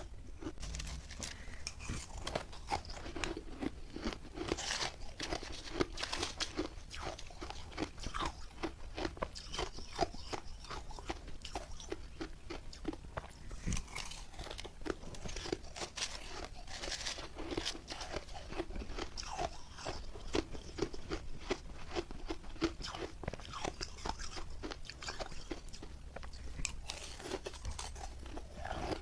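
Close-up chewing of refrozen milk-and-matcha ice: a dense, irregular run of sharp crunches and cracks as the ice is bitten and ground between the teeth, very crunchy.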